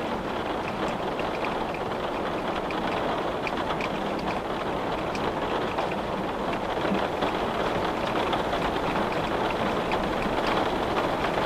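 Steady rain, with scattered raindrops tapping on a window.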